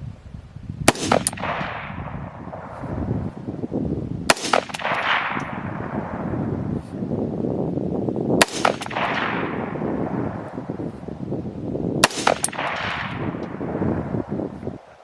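Four rifle shots about four seconds apart, each a sharp crack followed by a long echo that fades away over a few seconds.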